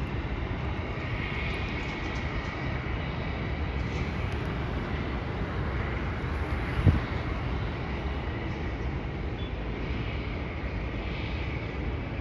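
Distant jet airliner engines running: a steady rumble with a high whine that swells and fades. A single short thump a little past the middle.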